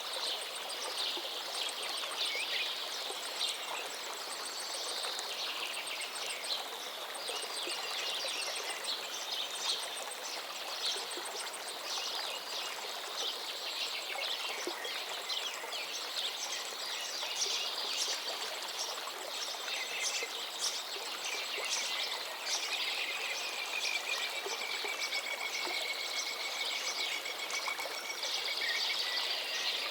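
River water flowing steadily under a busy chorus of birds chirping and singing. In the second half one bird holds a long, slightly falling whistled note, and a thin, very high trill repeats at intervals.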